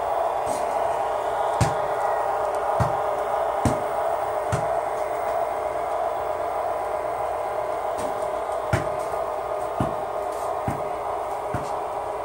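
HO-scale model diesel locomotives running with DCC sound decoders, their small speakers playing a steady diesel engine drone. Sharp clicks come roughly once a second.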